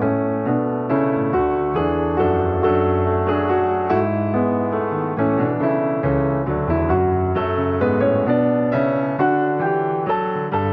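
Background piano music, a steady stream of soft, evenly paced notes.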